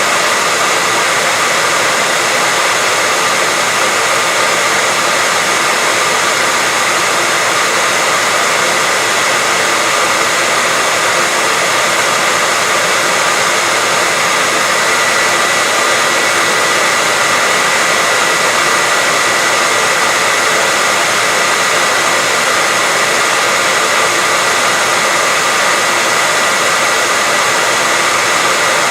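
Steady, unchanging white-noise hiss, stronger in the upper range than in the bass, with a faint steady high tone running through it.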